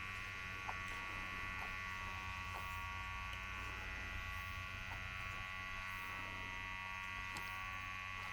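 Steady, even buzz of a small motor or machine, holding several fixed tones without a break.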